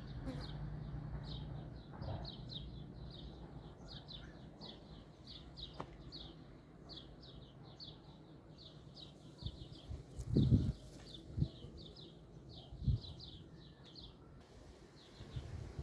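A small bird chirping over and over, several short high chirps a second, stopping near the end. A few low thuds sound under it, the loudest about two-thirds of the way in.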